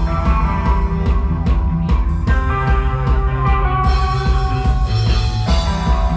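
Rock band playing an instrumental passage of psychedelic rock. Drum hits land over a heavy bass line and held melodic tones, at a steady loud level.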